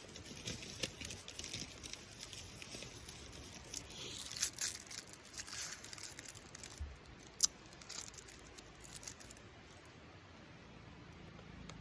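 Crinkling and rustling handling noise with scattered sharp clicks, the loudest click about seven and a half seconds in; it dies down after about nine seconds.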